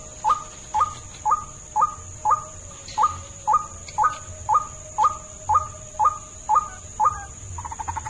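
White-breasted waterhen calling a monotonous series of short, upward-sweeping squawks, about two a second, which near the end breaks into a fast rattling croak. A steady high-pitched tone runs underneath.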